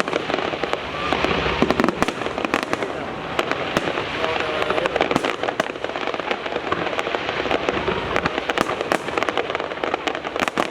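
Fireworks display: a dense, unbroken run of crackling and popping shell bursts, many reports each second.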